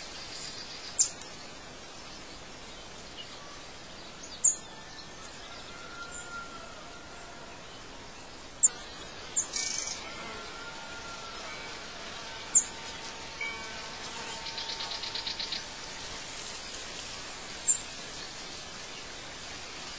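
Outdoor nature ambience: a steady hiss with a short, sharp, high bird chirp every few seconds, six in all, and a rapid pulsing trill lasting about a second and a half past the middle.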